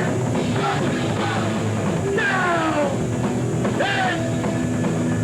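Hardcore punk band playing live, with distorted guitar and a drum kit at a loud, steady level; a few sliding, falling tones come about two and four seconds in.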